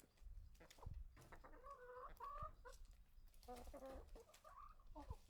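Chickens clucking faintly, in a few short runs of clucks.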